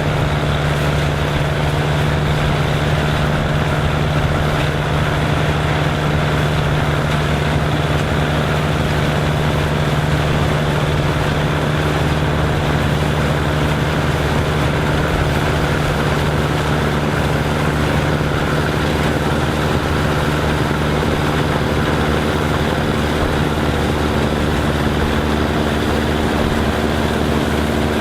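Farm machinery engine running steadily at an even speed, with a constant low hum and mechanical noise.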